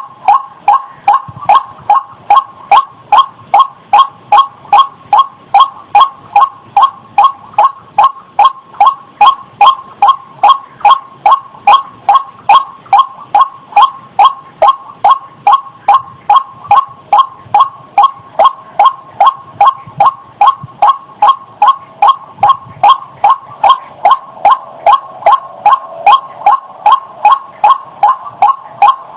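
White-breasted waterhen (ruak) calling: short, pitched notes repeated at an even pace of about two and a half a second, on and on without a break. It is a recorded lure call for trapping birds.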